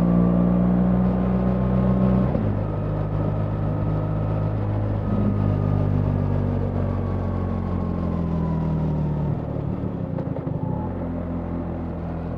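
BMW R 1300 GS boxer-twin engine running while riding, with wind and road noise. The engine note steps about two seconds in, slides lower over several seconds, and briefly breaks up near the end as the throttle changes.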